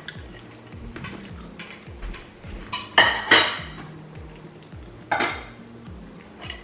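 Cutlery clinking and scraping against plates while eating, with a few sharp clinks: two loud ones close together about three seconds in and another about five seconds in.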